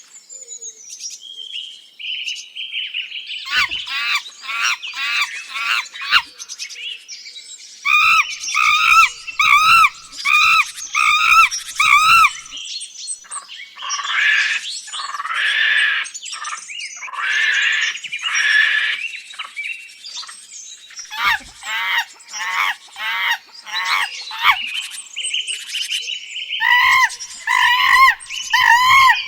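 Several birds calling and chirping together, with runs of short repeated rise-and-fall notes at about two a second.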